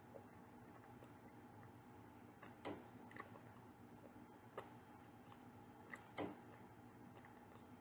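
Quiet eating sounds: about five soft, sharp clicks and taps spread over several seconds, over a faint steady hum.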